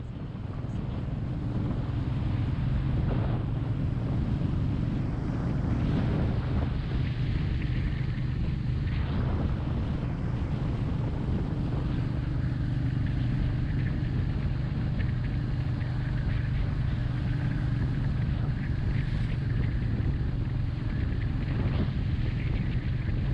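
Royal Enfield Meteor 350's single-cylinder engine running steadily while cruising on the road, with wind buffeting the microphone.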